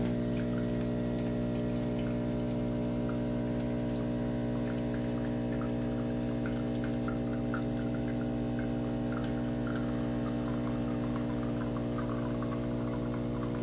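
Espresso machine's pump humming steadily while it brews, with liquid trickling and dripping into the cup.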